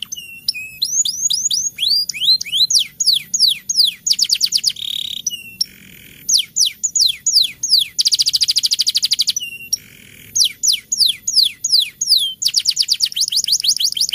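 Domestic canary singing in 'roll' style. Runs of quick downward-sweeping whistled notes alternate with three long, fast, buzzy trills, and the song cuts off suddenly at the end.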